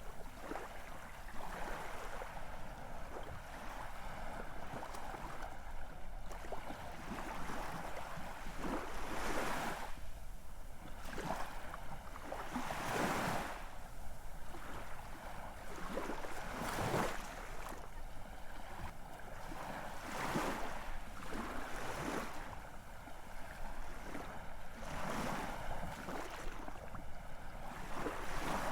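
Ocean surf: a steady rush of waves washing in, with a louder wave breaking every three to five seconds.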